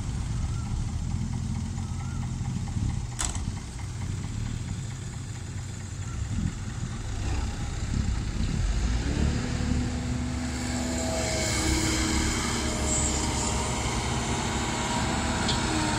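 Heavy diesel engine running steadily at a truck loading site, with a sharp click about three seconds in; from about halfway a higher, steadier engine note and a hiss join in.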